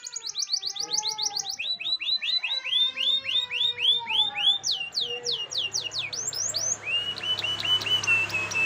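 Canary singing a fast rolling song: one short note repeated about ten times a second, then switching to a new repeated note, with downward sweeps, then rising sweeps, then a rapid steady trill near the end.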